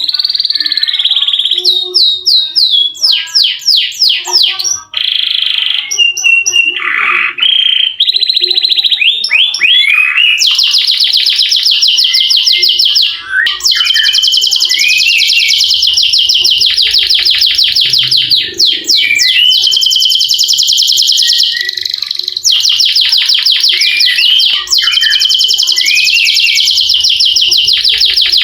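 Domestic canary singing: varied quick chirping phrases at first, then from about ten seconds in long, rapid rolling trills held for several seconds at a time, broken by short pauses.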